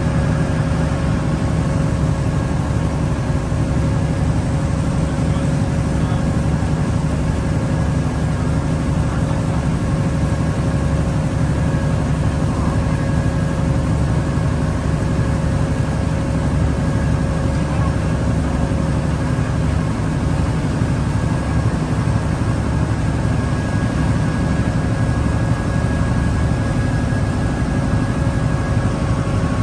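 Cross-river ferry boat's engine running steadily under way: a constant drone with several steady tones over rushing noise.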